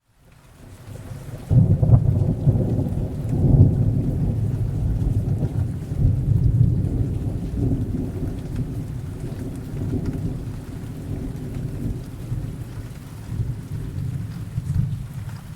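Thunder rolling over steady rain: the rumble swells in from near silence, strikes loudly about a second and a half in, and keeps rolling deep and low, fading slowly toward the end while the rain hiss goes on.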